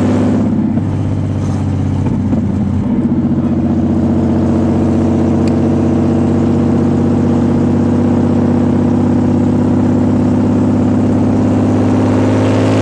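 Nissan 300ZX's naturally aspirated 3.0 L V6 (VG30DE) running with no exhaust system fitted. Its note shifts during the first three seconds or so, then holds a steady pitch.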